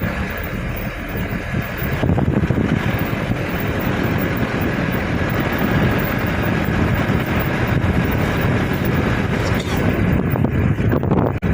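Wind buffeting the microphone over the steady rush of floodwater overflowing the riverbank, a dense low rumbling noise without breaks.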